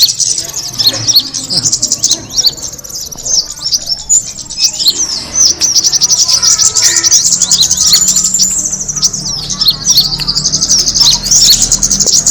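Kemade birds chirping and twittering: a dense, continuous stream of quick, high-pitched calls and short trills, the kind of call used as a lure to attract the bird.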